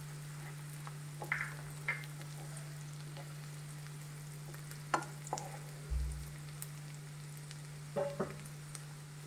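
Sliced onions and freshly added chopped garlic sizzling in oil in a nonstick frying pan, sautéing toward golden brown. A spatula stirs them, scraping and tapping the pan a few times, with a dull knock about six seconds in, over a steady low hum.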